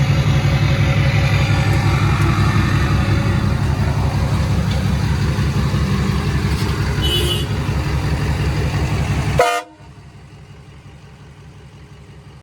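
Diesel pickup truck engine idling with an even low pulse. Near the end a short horn toot sounds, then the level drops suddenly and the idle carries on much quieter.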